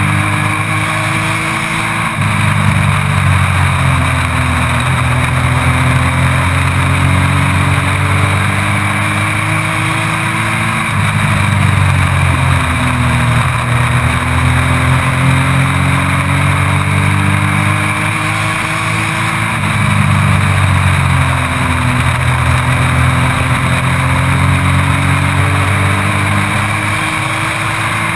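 Race truck's engine heard from the onboard camera, its pitch climbing steadily as it accelerates down each straight and dropping as the driver lifts for the turns, three times over, over steady wind and road rush.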